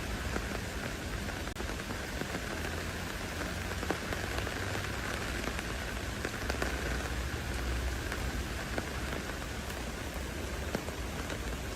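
Steady rain falling, with many separate drop ticks through an even hiss and a low rumble underneath.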